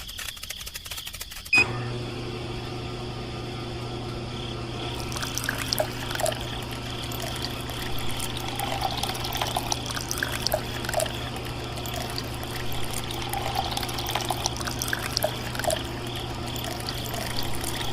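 Water running and splashing over a steady low motor hum, which starts with a click about one and a half seconds in.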